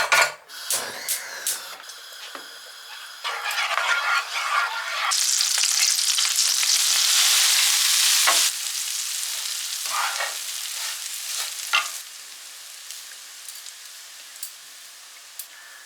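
Dessert-making sounds in a kitchen: utensils clinking and knocking against cookware, with a loud steady hiss for about three seconds in the middle, then it quietens to a faint hiss.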